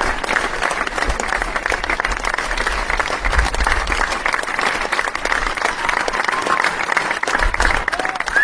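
A crowd applauding: dense, steady clapping with a few faint voices in it.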